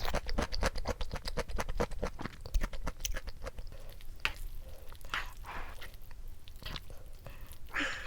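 Chopsticks stirring and mixing jajangmyeon noodles in a bowl. There is a fast run of wet clicks for the first few seconds, then slower, scattered smacks and rustles.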